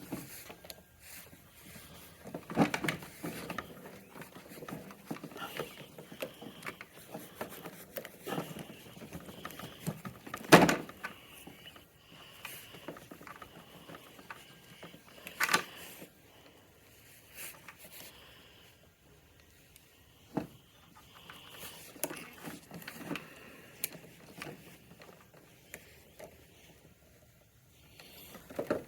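Intermittent clicks, taps and rattles of hand tools and small parts being worked on a scooter, with a few sharper knocks, the loudest about ten seconds in.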